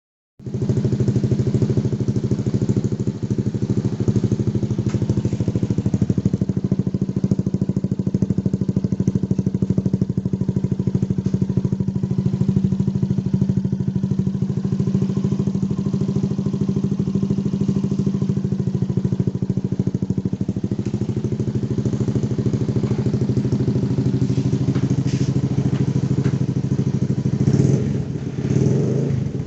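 Motorcycle engine running steadily at idle through an aftermarket racing exhaust, starting about half a second in. Its pitch and loudness shift briefly near the end.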